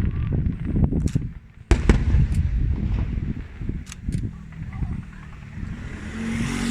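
Aerial fireworks shells bursting: a low rolling rumble with several sharp bangs and cracks in the first few seconds, the loudest about a second and a half in, then dying down to a quieter rumble.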